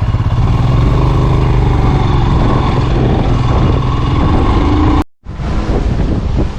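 Motorcycle engine running as the rider pulls away and rides off, its pitch gliding up and down a little. The sound cuts out completely for a moment about five seconds in.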